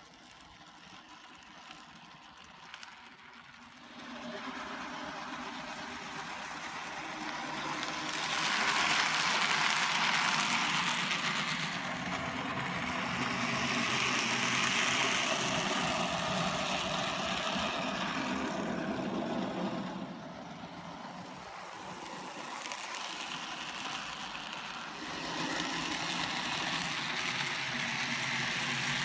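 N gauge model train running on the layout, a steady mechanical hum that swells and fades as it comes and goes: louder about a quarter of the way in, quieter for a while past the middle, and louder again near the end.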